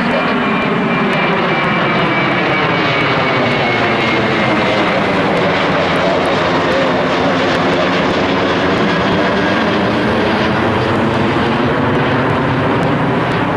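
Jet airliner taking off, its engines at takeoff power: a loud, steady engine noise with a high whine that slowly falls in pitch.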